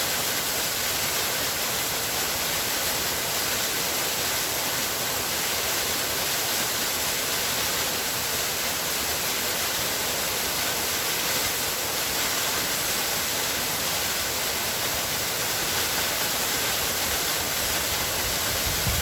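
Waterfall: water pouring steadily, an even, unbroken rush.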